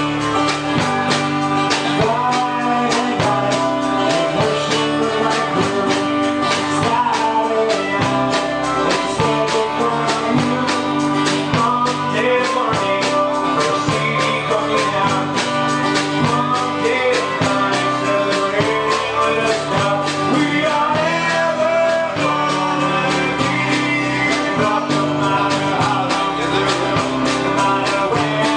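Celtic punk rock band playing live: a steady drumbeat under guitars and a busy melody line, loud and continuous.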